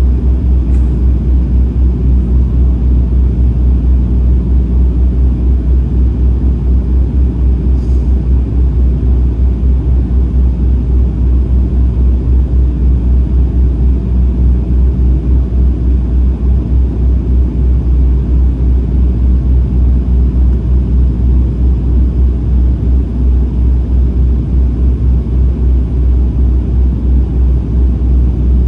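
Airliner cabin noise on approach: a steady, deep rumble of engines and airflow, heard inside the cabin by a window seat. Two faint clicks, about a second in and about eight seconds in.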